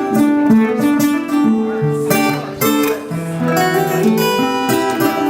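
Acoustic guitar strummed in a steady rhythm with changing chords, the instrumental opening of a song.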